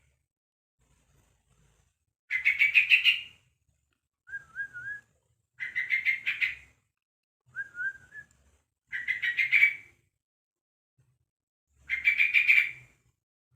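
Young yellow-vented bulbul (trucuk), about a month old, giving its call: four loud chattering phrases of about a second each, spaced a few seconds apart, with two shorter, softer wavering whistles in between.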